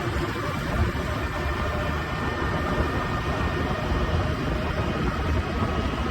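Preet 987 combine harvester's diesel engine running steadily as the machine drives along the road: an even low rumble with a faint steady whine above it.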